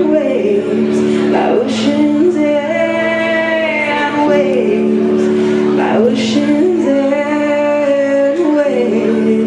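Live band music: a melody line of long held notes that slide from one pitch to the next, over steady sustained chords, with a few cymbal-like crashes.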